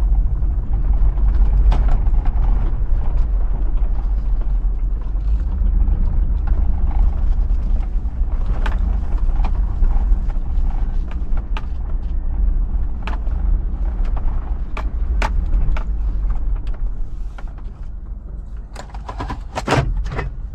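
Hummer H2's 6.0-litre V8 running with a deep, steady rumble as the SUV drives, with scattered knocks and rattles; the rumble eases lower in the last few seconds.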